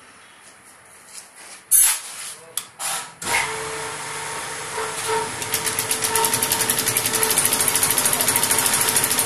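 A few sharp knocks, then a machine starts about three seconds in and runs with a steady hum and a fast, even clatter that builds up and gets louder over the next few seconds.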